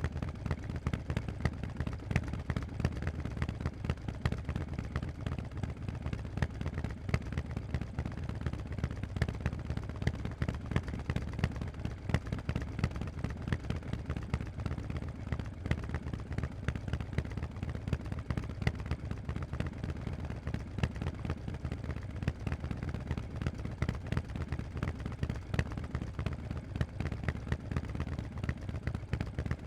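Harley-Davidson Forty-Eight's air-cooled V-twin running through Vance & Hines aftermarket exhausts, a steady stream of exhaust pulses.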